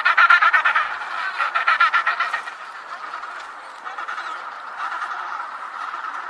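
Rapid, chattering animal calls in two loud bursts over the first two and a half seconds, then fainter calls continuing.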